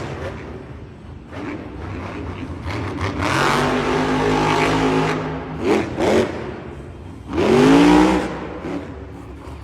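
Monster truck's supercharged V8 engine revving hard during a freestyle run. It climbs and holds high, gives two quick blips about six seconds in, then makes one loud rising rev near the end and eases off.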